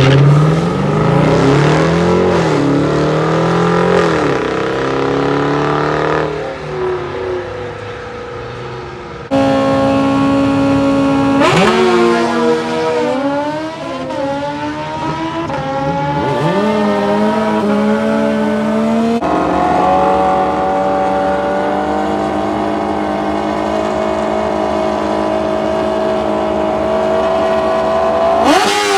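Engine accelerating hard at a drag strip, its pitch climbing and then dropping at each gear change, repeated over several runs that cut in abruptly.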